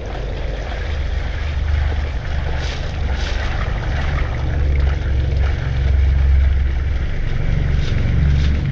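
Small classic car's engine idling steadily with a low, pulsing note, while a stream of water pours from under the car and splashes onto gravel. The water is draining out of the car, which has a damp problem.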